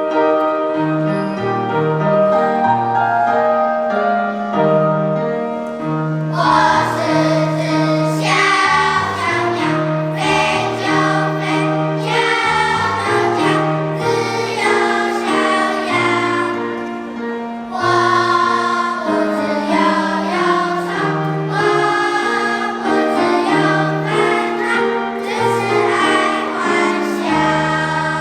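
Children's choir singing with piano accompaniment. For the first six seconds or so the accompaniment plays with little singing, then the choir's voices come in fully and carry the melody over a steady bass line.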